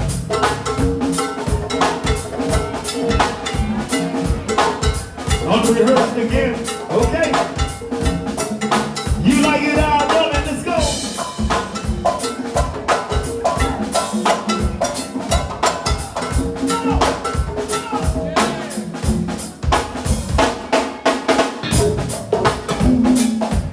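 Live band music led by drum kit and hand percussion playing a steady, busy groove, with held notes underneath.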